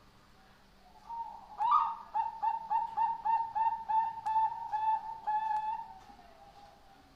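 Zebra dove (Bangkok-type perkutut) singing: after an opening coo about a second in comes a quick, even run of about a dozen short coos, roughly four a second, ending in a fainter low trailing note.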